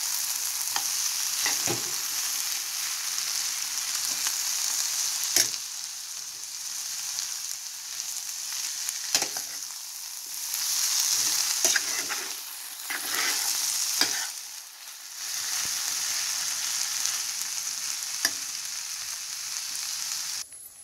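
Food sizzling steadily in hot oil in a pan, with a few sharp clicks of a utensil against the pan. The sizzle cuts off suddenly just before the end.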